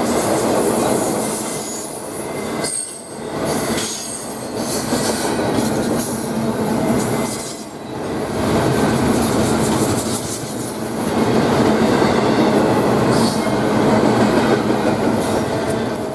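A train rolling past, its wheels clacking over the rails with some high wheel squeal, the loudness swelling and dipping.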